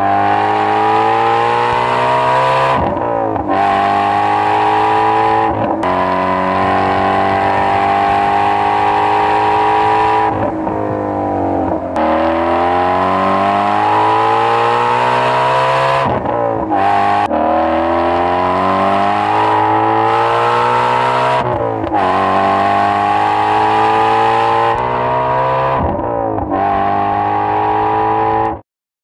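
Ford Mustang Shelby GT350R's 5.2-litre flat-plane-crank V8 accelerating hard through the gears. The pitch climbs steadily, then drops sharply at each upshift every few seconds, and the sound stops suddenly near the end.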